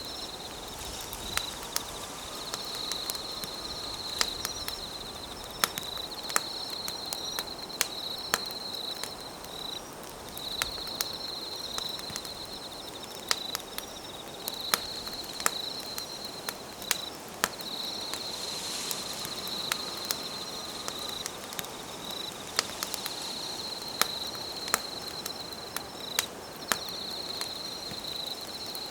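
Campfire burning, with a steady low hiss and frequent sharp crackles and pops. Over it, an insect trills high in phrases of about two seconds, repeating every three to four seconds.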